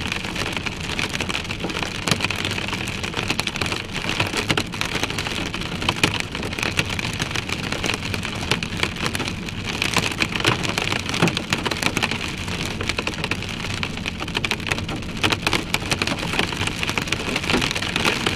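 Heavy rain striking the roof and windshield of a moving car, heard from inside the cabin: a steady, dense patter of drops over the low sound of the tyres and road.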